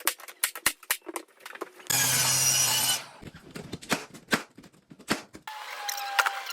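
Tools at work: a quick run of sharp clicks and knocks, broken by a power tool running for about a second, about two seconds in. Another steady whine starts about five and a half seconds in.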